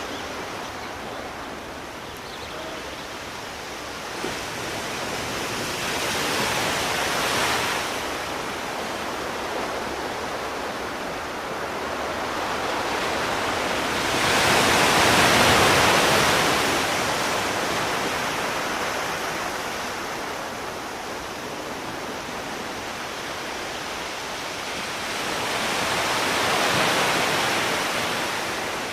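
Sea surf: waves washing in over a steady hiss, swelling three times about ten seconds apart, the loudest in the middle.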